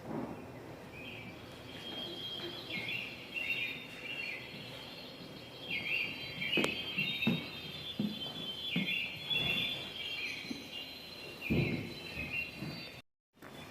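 A bird singing the same short chirping phrase over and over, every second or two, with a few sharp knocks and soft thuds among it. The sound cuts off abruptly near the end.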